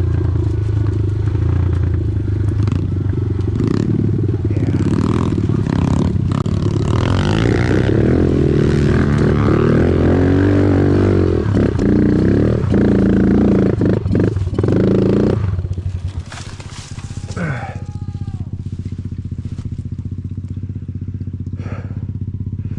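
Small single-cylinder four-stroke dirt bike engine revving hard and labouring under load on a hill climb, the pitch rising and falling with the throttle. About fifteen seconds in the revs drop suddenly and the engine settles to a quieter steady running note.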